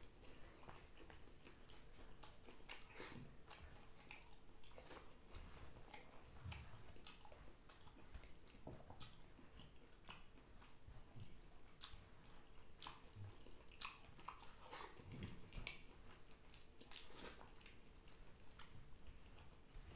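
Quiet chewing and small wet mouth smacks of a person eating rice by hand, with irregular soft clicks as fingers gather the rice on a banana leaf.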